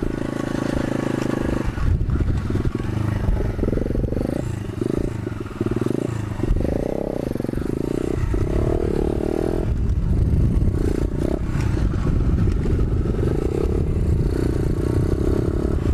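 125cc pit bike's single-cylinder four-stroke engine running while being ridden, its revs rising and falling with the throttle, with a few rattles and knocks from the bike over rough ground.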